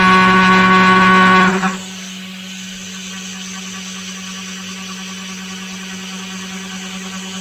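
Tomahawk Pro CNC machine running a job: a loud, steady pitched machining sound with many overtones cuts off about a second and a half in, leaving the machine's steady hum and a faint high whine.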